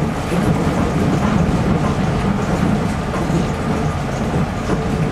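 Running noise inside a Toei 300 series Nippori-Toneri Liner car, a rubber-tyred automated guideway train, while it travels between stations: a steady rumble with a faint hum.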